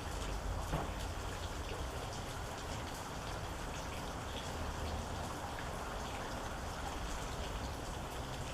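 Steady rain falling, with individual drops landing as scattered small ticks over an even hiss.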